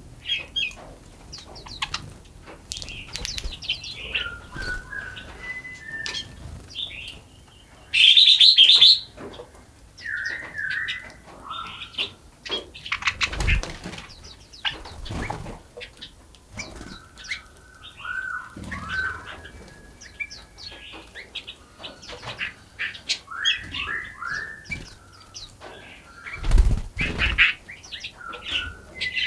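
Forest songbirds chirping and singing, several birds at once, with many short chirps and slurred whistled phrases. A loud harsh rasping burst comes about eight seconds in, and low thumps come near the middle and a few seconds before the end.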